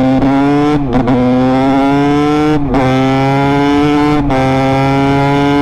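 Honda CR250's single-cylinder 250 cc two-stroke engine pulling under load. The note climbs slowly, with three brief breaks, about one, two and a half and four seconds in, as the rider changes up through the gears.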